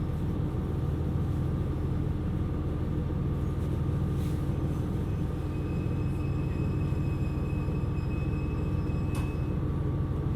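KiHa 127 series diesel railcar running along the line: a steady low rumble of engine and wheels on the rails, with a constant hum.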